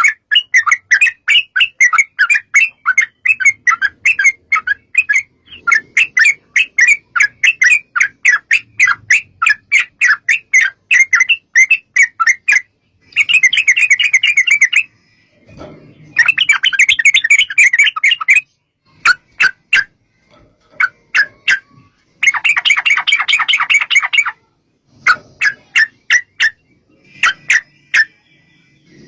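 Yellow-vented bulbul (trucukan) singing in long rapid runs of short, chattering notes, the long rolling song that keepers call ropel panjang. The runs come in bouts broken by short pauses, and a few bouts are denser and harsher.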